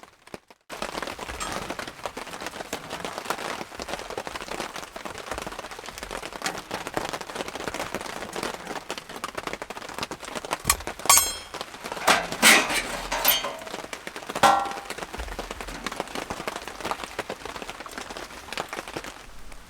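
Steady rain pattering, with a cluster of louder knocks and clatter about halfway through.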